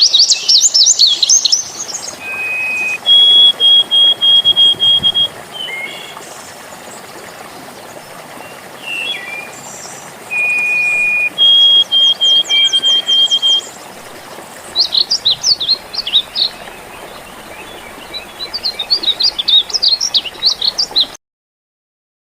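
Birds singing over a steady trickle of running water: bursts of rapid chirping trills alternate with runs of high, even whistled notes. All sound cuts off abruptly near the end.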